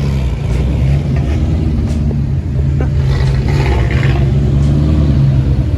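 Car engine and exhaust running at low revs with a steady, low drone, the pitch lifting slightly a couple of times, as in creeping stop-and-go traffic.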